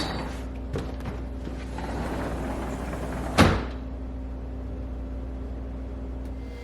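Snow being shoveled: a shovel scraping through snow, with one sharp knock about three and a half seconds in, over a steady low rumble.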